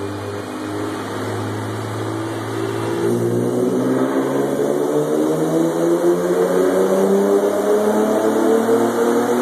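Nissan 370Z's 3.7-litre V6 breathing through Fast Intentions long-tube headers and exhaust. It runs steadily at first, then from about three seconds in the exhaust note climbs slowly in pitch and grows louder as the engine speeds up.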